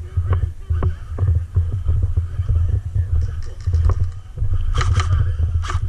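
Low, uneven rumbling and knocking on the microphone, with a couple of short rasping bursts near the end.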